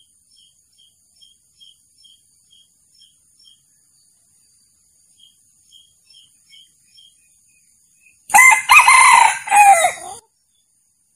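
Male junglefowl crowing once, a loud crow of about two seconds near the end. Before it, faint quick high chirps repeat about twice a second.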